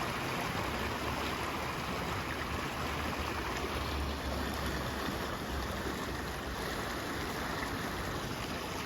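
Rain-swollen creek running high and fast: a steady rush of floodwater.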